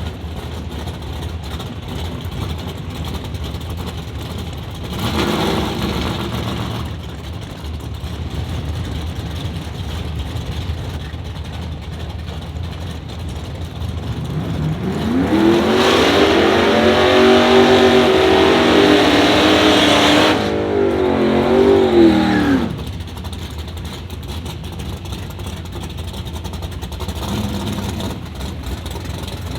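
Drag-racing car engines at the strip: a steady low rumble throughout, a short rev about five seconds in, and from about 14 seconds a loud high-revving run for about eight seconds that rises, falls and cuts off abruptly.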